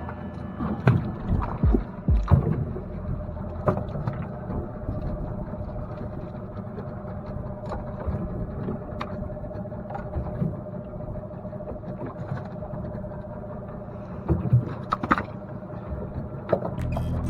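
Low rumble aboard a small fishing boat, with a faint steady hum and scattered knocks, a cluster of them in the first couple of seconds and another about two-thirds of the way in.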